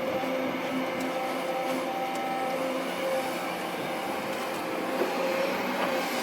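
Kobelco SK200-8 excavator running: a steady mechanical noise with a faint steady whine through it.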